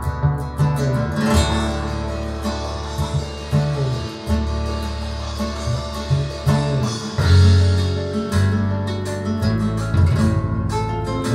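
Recorded guitar-led music with strong bass notes, played through Børresen X6 tower speakers and picked up in the listening room.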